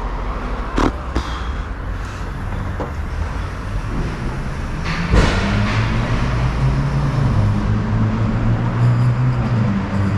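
A motor running with a low, steady hum, preceded by a couple of sharp knocks about a second and about five seconds in.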